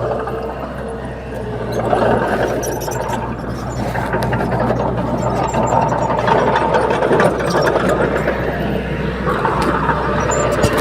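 Bulldozer diesel engine running steadily under work, with a low hum and some mechanical clatter, getting a little louder about two seconds in.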